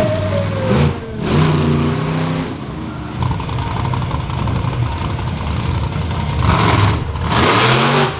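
Monster truck engine revving hard, its pitch rising and falling in repeated bursts, with the loudest surge near the end.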